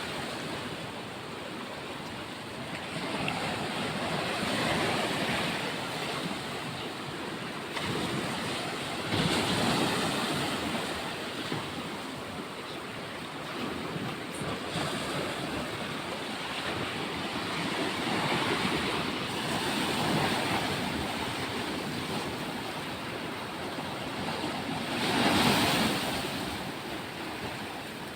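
Sea waves washing onto a beach, the surf swelling and falling back every few seconds, with the biggest surge near the end.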